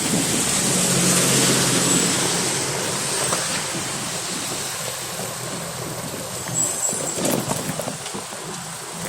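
A motor vehicle running with a steady rushing noise and a low engine hum, and a few clicks and knocks in the latter half.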